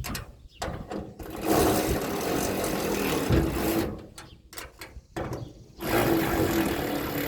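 Socket ratchet tightening the nuts on the waterer's mounting-bracket bolts, in two runs of rapid ratchet clicking of a couple of seconds each, with a few separate clicks between them.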